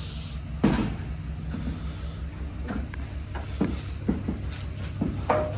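An engine idling with a steady low, pulsing rumble, with scattered knocks and clunks over it, the loudest one about two-thirds of a second in.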